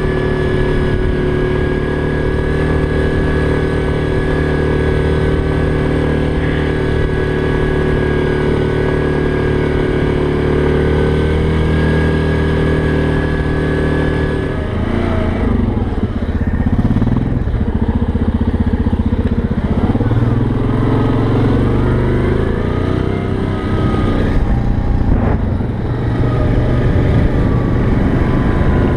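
ATV engine running while riding: it holds a steady pitch for about the first half, then rises and falls in pitch as the throttle changes.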